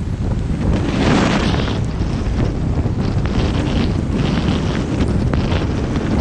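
Road and wind noise of a vehicle driving a highway in the rain: a steady low rumble with hiss that swells and fades every second or two.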